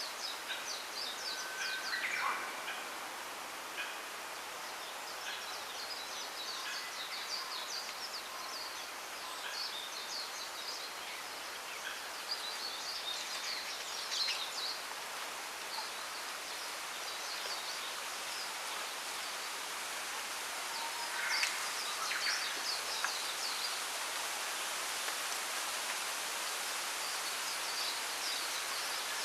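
Wind rustling through bamboo leaves in a steady hiss, with small birds chirping and twittering high-pitched throughout. A few louder, lower calls come about two seconds in and again past the twenty-second mark.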